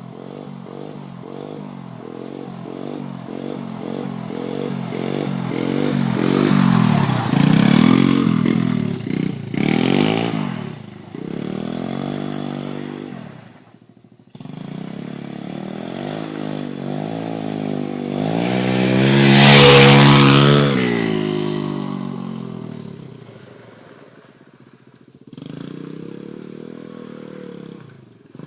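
Pit bike engine revving hard, its pitch climbing and dropping again and again as it is run up through the revs. It grows loud twice and fades away in between.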